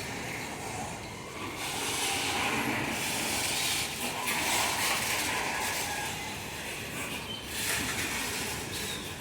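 Loaded ore hopper wagons rolling past at low speed, a steady rumble and hiss of wheels on rail with faint squeals, as the train starts to pick up speed.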